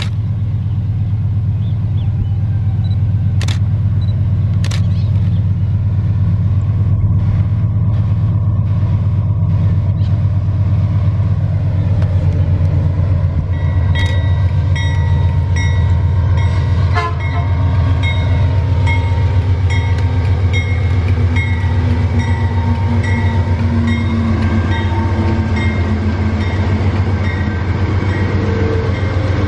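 A GE AC44i diesel-electric locomotive hauling a double-stack container train, passing close with a steady heavy engine drone. From about halfway, the container wagons roll by with a regular clicking of wheels on the rails.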